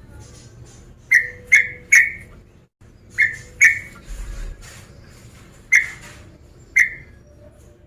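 Yellow-vented bulbul (trucukan) calling: about seven short, sharp chirps near 2 kHz, in quick groups of two or three with gaps between.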